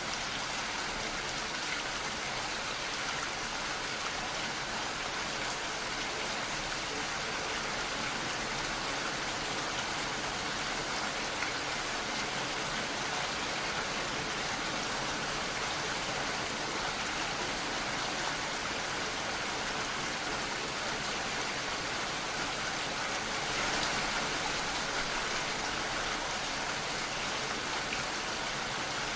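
Steady rainfall, an even hiss of many drops falling on surfaces, swelling slightly near the end.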